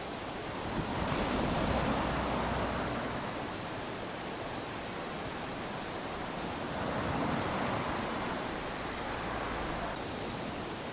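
Small waves lapping onto a sandy beach: a hiss of surf that swells and fades twice, about six seconds apart, as each wave washes up the sand.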